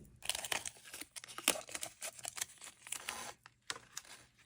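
Washi tape being peeled off its roll and torn by hand, a run of quick crackling and ripping sounds with a short pause near the end.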